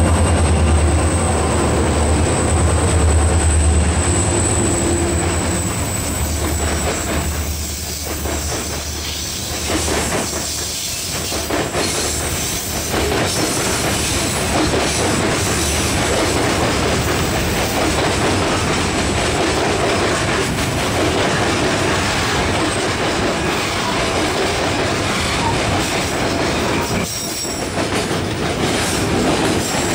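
A pair of EMD SD40 diesel locomotives passes close by, their engines' low rumble strong for the first few seconds and then fading. After that comes the steady rolling clatter of a long freight train of hopper and tank wagons going past on the rails.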